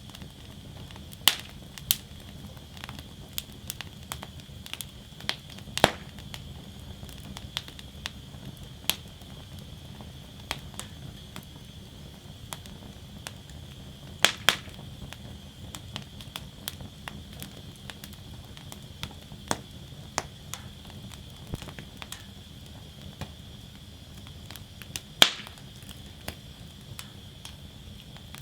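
Wood fire burning in a fire basket, crackling with irregular small snaps and a few louder sharp pops, over a steady low rumble and faint hiss of the flames.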